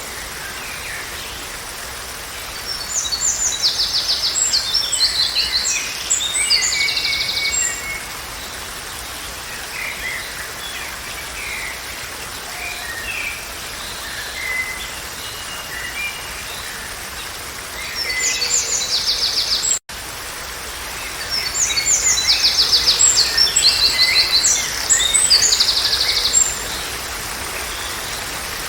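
Songbirds singing over a steady background hiss: two long bouts of rapid, high trilled song phrases, with scattered short chirps between them. The sound cuts out for an instant about two-thirds of the way through.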